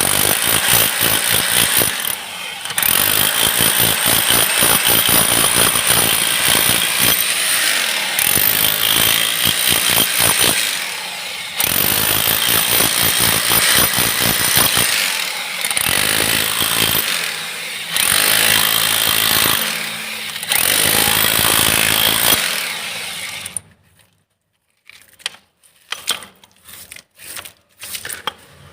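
Hammer drill running in long bursts of rapid hammering, with short pauses between them. It stops about 23 seconds in, and a few scattered small knocks follow.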